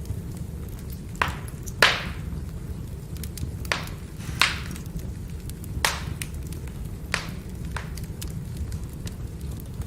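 Wood fire burning: a steady low rumble with scattered crackling and about six sharp pops and snaps, the loudest about two seconds in.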